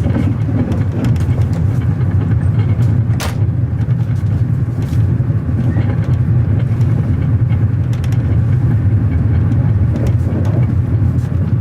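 A vehicle running: a steady, loud low rumble with a few short clicks and rattles over it.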